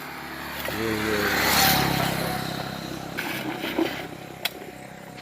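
A motor vehicle engine revving up, loudest about a second and a half in, then dying away, with a few sharp knocks later on.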